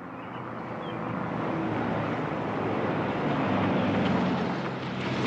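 A vehicle, most likely a pickup truck, driving: steady engine hum with road noise, growing louder over the first couple of seconds and then holding steady.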